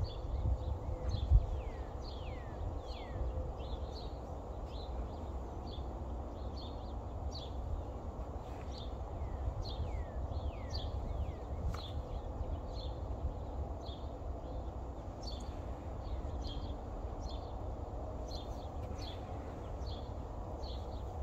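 Several small birds chirping, many short downward-sliding chirps overlapping one another, over a steady low rumble. A few low thumps come in the first second or so.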